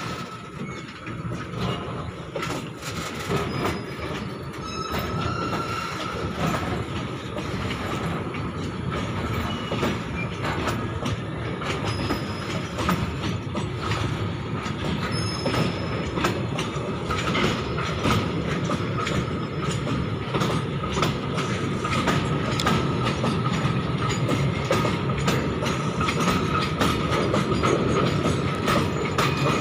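Freight wagons loaded with long steel rails rolling past: a steady rumble of wheels on track with frequent clicks and clatter over the rail joints, and a thin steady wheel squeal. The sound grows gradually louder.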